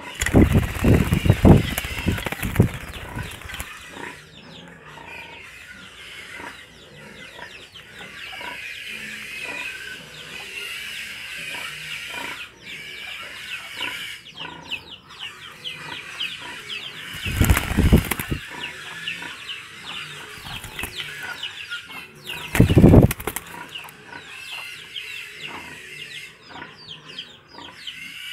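Birds chirping continuously in quick, high twitters. Three louder bursts of low rustling cut through: one in the first few seconds, one about two-thirds of the way in and one a few seconds later.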